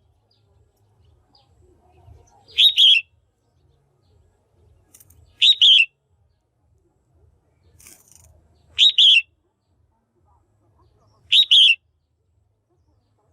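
Female red-whiskered bulbul calling: a short, bright two-part call, given four times at intervals of about three seconds.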